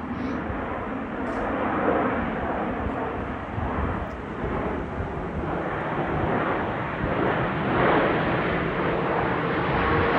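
Airplane engine noise from an aircraft flying overhead, growing gradually louder as it approaches, with a steady engine tone coming in near the end.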